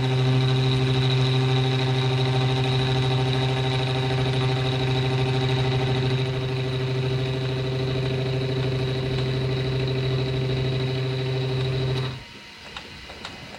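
Milling machine motor running at a steady speed, with a strong low hum and a thin high whine, then switched off about twelve seconds in and winding down.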